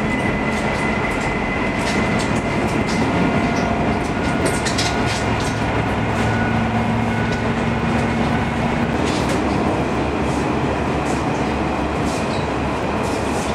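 Aizu Railway AT-351 trolley train running along the track: a steady rumble with faint held tones and scattered sharp clicks and clacks from the wheels and rail joints.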